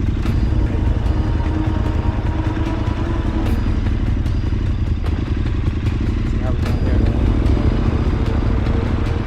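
Big adventure motorcycle's engine running steadily close by, a deep pulsing rumble that lifts slightly late on.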